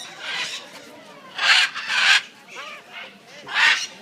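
Harsh, raspy bird calls, four short squawks, with fainter chirping calls from other birds between them.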